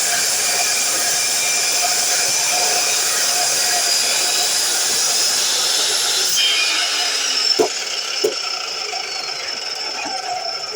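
DeWalt miter saw running at full speed with a steady whine. About six seconds in it is switched off and the whine falls in pitch as the blade spins down, followed by two sharp clicks.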